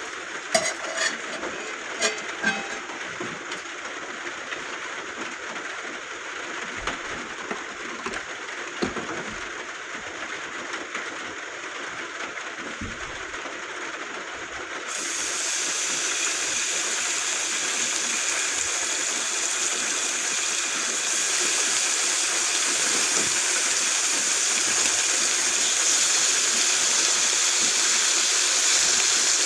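Steady hissing noise with a few light clicks in the first few seconds; about halfway through it suddenly becomes louder and brighter and stays that way.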